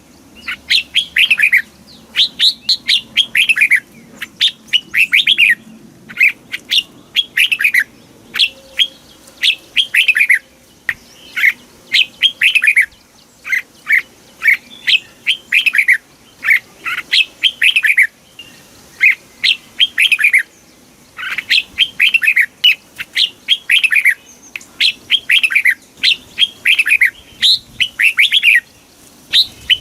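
Red-whiskered bulbul singing: quick runs of clear whistled notes, phrase after phrase with short pauses between.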